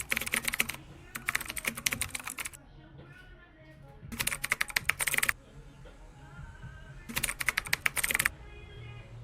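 Rapid keyboard typing clicks in four bursts of about a second each, with short pauses between them.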